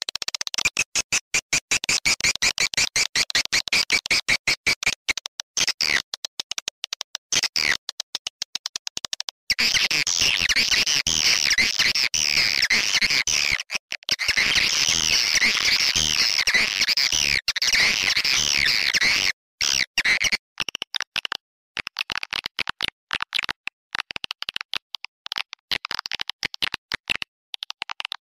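Swiftlet lure call (suara panggil) for a swiftlet house, played from a recording: high-pitched chattering and twittering of edible-nest swiftlets. It opens with rapid, even pulsing, becomes a dense stretch of warbling chirps about ten seconds in, and returns to pulsing chirps near the end.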